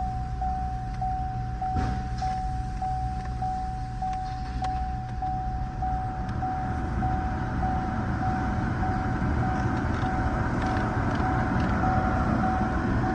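2014 Chevrolet Impala's 2.5L inline-four engine running steadily, a bit louder in the second half, with the car's warning chime beeping continuously, about two beats a second.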